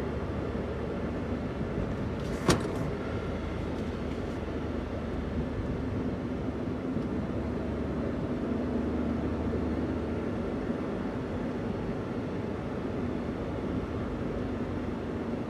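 Daihatsu Hijet kei van's 660 cc three-cylinder engine running steadily while driving, with road noise; the engine note swells and rises slightly a little past the middle. A single sharp click or knock sounds about two and a half seconds in.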